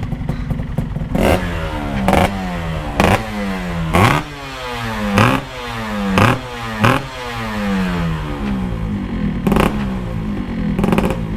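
Motorcycle engine revved in a series of about ten quick throttle blips, its pitch jumping up each time and falling back toward idle in between.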